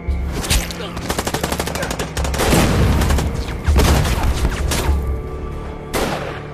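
Film battle sound: a rapid run of gunfire, like a machine gun firing, then three loud blasts about a second or more apart, over dramatic film music.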